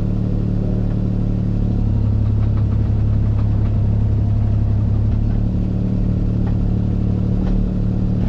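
Diesel engine of a piece of compact earthmoving equipment running steadily, pulling harder for a few seconds in the middle, with a few faint knocks.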